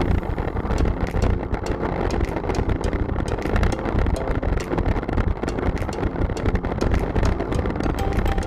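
Wind rushing over the microphone and road noise from riding along a road, a steady low rumble with many small clicks and ticks.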